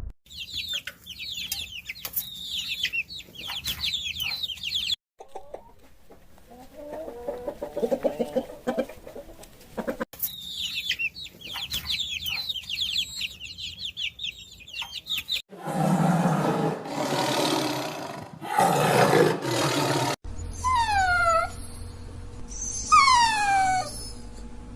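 A run of different animal calls cut one after another: rapid high chirping, a stretch of lower calls, more chirping, two loud rasping calls, then long falling whistle-like cries.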